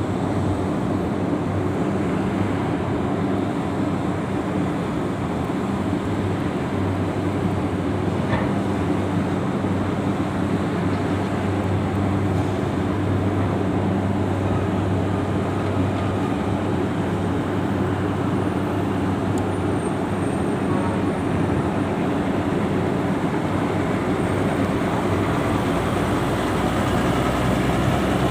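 Steady drone of heavy engines as vehicles are unloaded from a car ferry, with a deep hum that shifts in pitch near the end.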